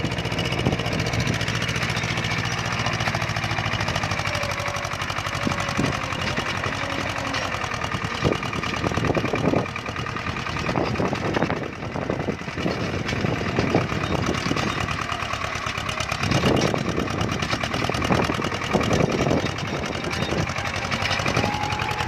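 Tractor engine running steadily, with irregular clanks and rattles over its drone.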